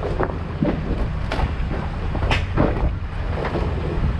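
An off-road truck's engine running with a steady low rumble, with wind on the microphone. Scattered sharp knocks or crunches are heard, the loudest about two seconds in.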